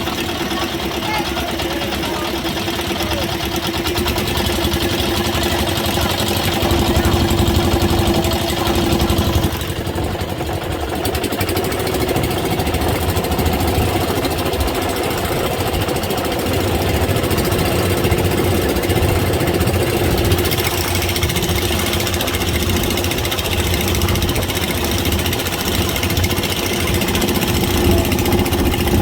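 Boat engine running steadily, a continuous drone that dips briefly about ten seconds in.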